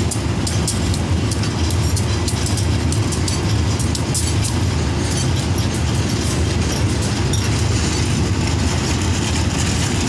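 Train of ballast wagons rolling along the track: a steady low rumble with many quick rattling clicks, thickest in the first half.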